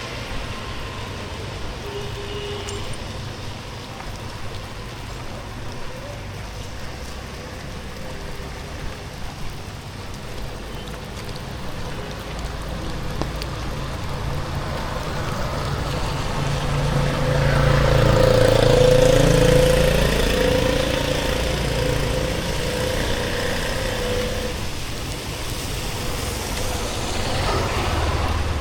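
Road traffic on a wet street in the rain, under a steady hiss. A motor vehicle passes close, building up to its loudest about 19 seconds in, then falling in pitch as it goes by.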